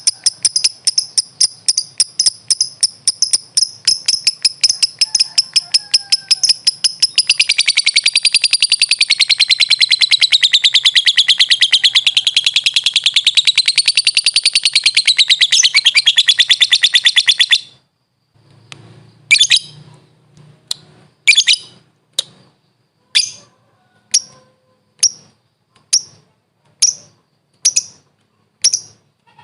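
Lovebird (Agapornis) singing a long, very fast chattering trill, the call keepers call 'ngekek', high-pitched and wavering up and down, which stops abruptly about 17 seconds in. It is followed by single sharp chirps, about one a second.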